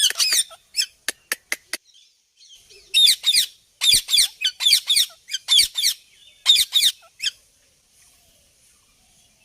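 Indian ringneck parrot chirping: several bursts of quick, high, sweeping chirps in rapid series, with a few short sharp clicks in the first two seconds.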